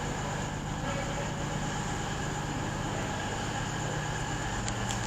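Diesel multiple unit engines running steadily at a station platform, a low even hum. A brief click sounds near the end.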